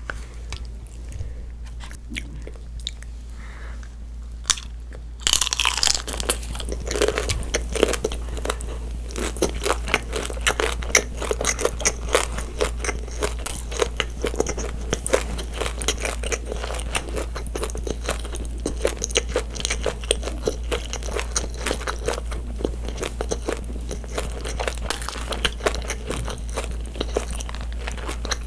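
Close-miked chewing of butter shrimp: quiet mouth sounds at first, then from about five seconds in a dense, continuous run of sharp wet clicks as the shrimp is chewed. A steady low electrical hum lies underneath.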